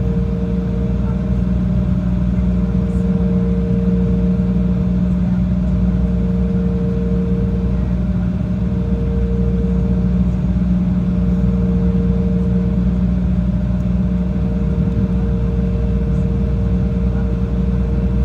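Jet airliner's engines droning steadily in flight, heard inside the cabin: a heavy low hum with two steady tones above it, one of which swells and fades every couple of seconds.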